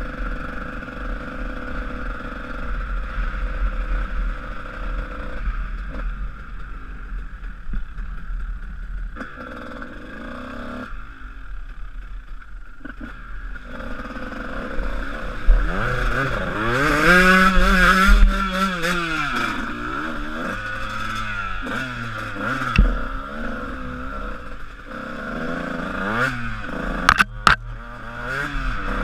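Honda CR125 two-stroke motocross engine, running softly at first with a couple of quieter lulls, then revving up and down several times through the second half. A few sharp clicks sound near the end.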